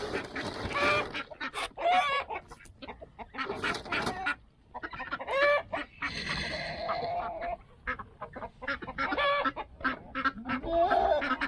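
A flock of farmyard poultry calling: chickens clucking and squawking in many short, overlapping calls, with a longer call from another fowl in the middle.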